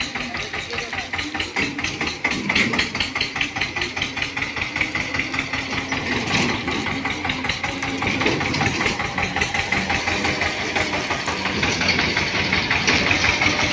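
Eicher 242 tractor's diesel engine running steadily, its exhaust beating in a rapid, even pulse.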